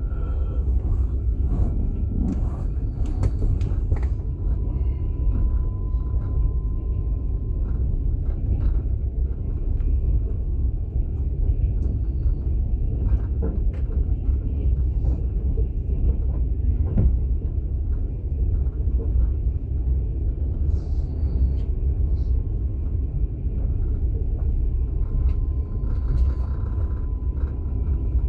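Steady low rumble of a moving passenger train heard from inside an open-plan sleeper carriage, with a few faint knocks and a thin high tone coming and going.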